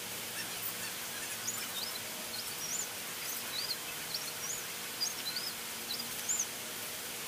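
Steady hiss of background noise, with about a dozen short, high chirps of a small bird in the middle.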